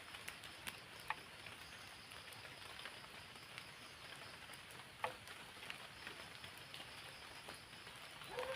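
Steady light rain hissing, with scattered drips and small sharp taps, the clearest about a second in and about five seconds in. A person's voice starts just at the end.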